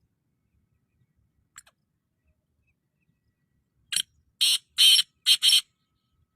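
Black francolin calling: a faint short note, then about two seconds later a loud rapid phrase of five harsh, grating notes lasting under two seconds, the middle one the longest.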